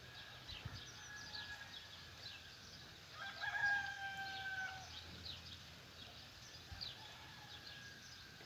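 A rooster crowing once, a long held call about three seconds in, over the steady chirping of many small birds. A fainter, more distant crow is heard near the start.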